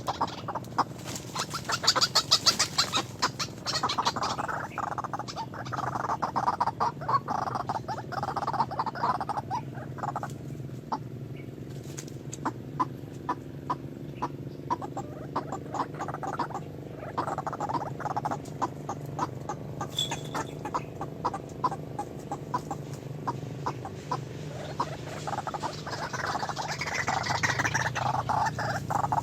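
Birds calling, with a rapid run of sharp clicks and chirps over a steady low hum.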